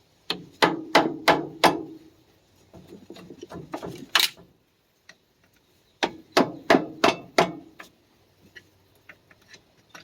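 Hammer blows on the Ford 1910 tractor's front axle assembly, knocking a stuck part loose: a quick run of about five strikes, a single strike in the middle, then another run of about six.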